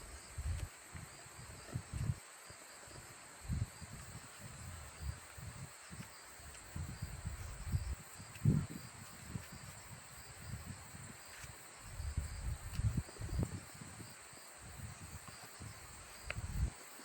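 Insects, likely crickets, chirping in a steady high drone, with irregular low rumbles on the microphone throughout.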